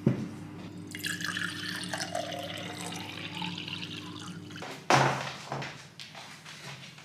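Water running or pouring for about four seconds, then a sharp knock about five seconds in.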